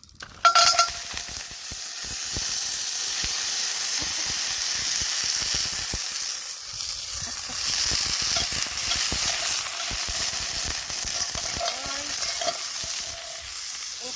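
Food sizzling on a preheated hot pan over a wood fire. The sizzle starts suddenly about half a second in and goes on steadily, with scattered crackles.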